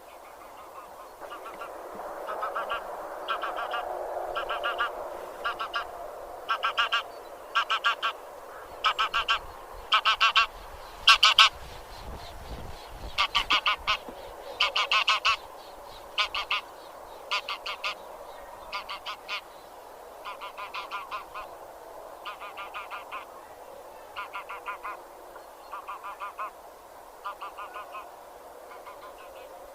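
Geese of the genus Anser honking: a run of repeated calls, roughly one or two a second, each a quick series of notes over a steady background chatter from other geese. The calls grow louder to a peak about eleven seconds in, then go on more softly.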